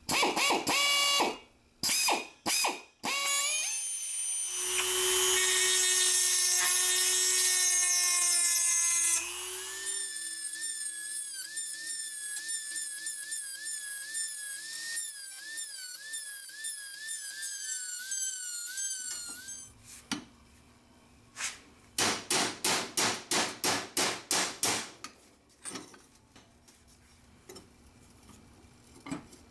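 Workshop tool sounds: a few sharp clicks, then a power tool running loudly for about five seconds, then a wavering high squeal for about nine seconds. Near the end comes a quick run of about a dozen sharp strokes, about four a second.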